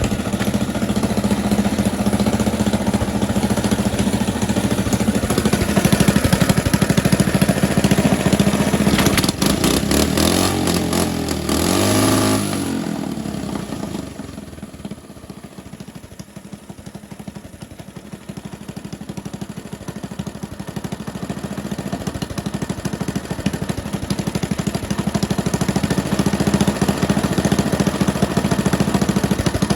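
Coleman BT200X mini bike's single-cylinder 196cc engine, running on a 130 main jet, running steadily, then revved up and back down about ten to twelve seconds in. It runs quieter for several seconds after that, then louder again near the end.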